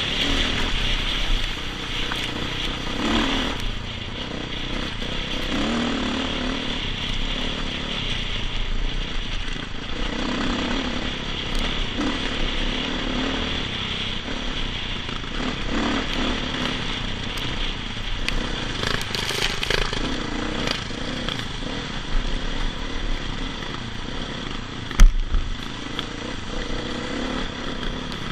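Dirt bike engine running while riding, its pitch rising and falling as the throttle opens and closes. A single sharp knock near the end is the loudest moment.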